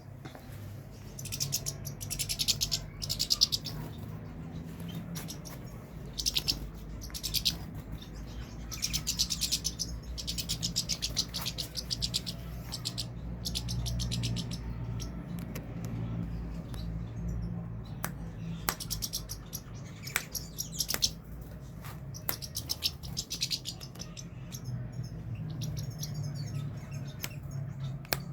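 European goldfinch singing: rapid twittering phrases in bursts of about half a second to a second, separated by short pauses, over a steady low hum.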